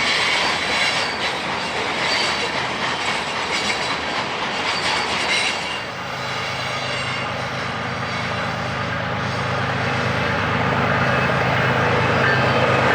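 Freight train passing close by: wheels clicking over the rail joints, with some flange squeal. About six seconds in, a steady low drone comes in and grows louder.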